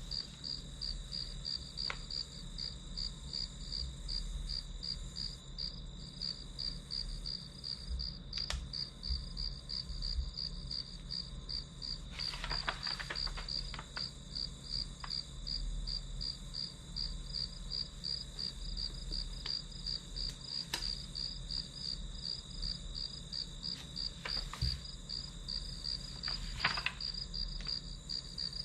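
Crickets chirping steadily in a fast, even, high-pitched pulse, with a few faint clicks and rustles.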